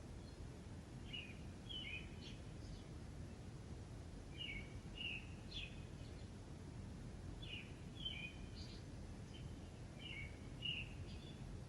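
A songbird singing short phrases of a few quick chirping notes, repeated about every three seconds, over a steady low background rumble.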